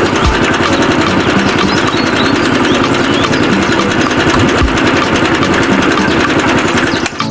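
An engine running steadily at a fast, even beat, loud and close, stopping abruptly at the end.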